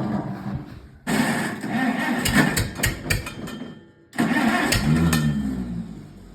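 Tractor engines cold starting one after another in separate clips. About a second in, one engine cranks and catches. About four seconds in, another starts and its speed rises as it catches.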